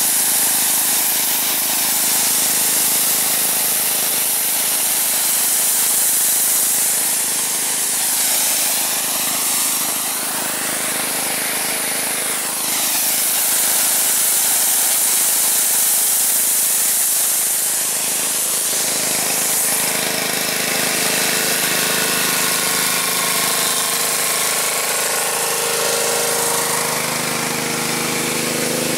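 Gas-engine pressure washer running steadily under the hiss of its high-pressure spray wand, the spray's sound swelling and sweeping as the wand is moved over the surface.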